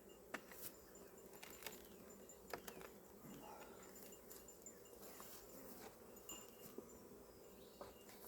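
Faint, steady hum of honeybees buzzing around an opened hive, with a few light clicks and knocks scattered through it.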